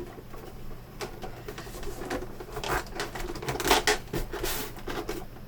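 Plastic monitor casing being pressed together by hand, its snap clips clicking into place amid scattered taps and scraping of plastic on plastic, busiest about two thirds of the way in.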